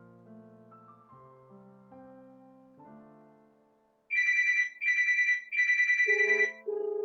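Soft piano background music, then about four seconds in a phone ringtone starts: a loud, fast trilling bell-like ring in three bursts, with a lower tone joining near the end.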